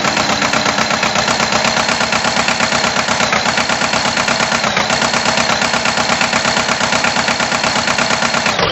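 Tractor engine sound effect running steadily with a fast, even chugging pulse.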